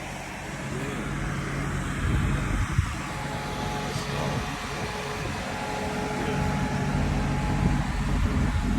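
A car engine idling with a steady hum, getting louder toward the end.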